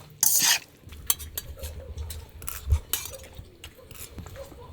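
Cutlery clinking and scraping against plates and a pot as pasta is served and eaten: a short loud scrape right at the start, then scattered light clinks.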